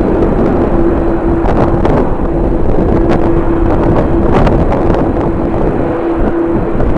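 Strong wind buffeting the microphone over a steady droning hum of jet aircraft engines. The hum keeps dropping out briefly as the gusts cover it.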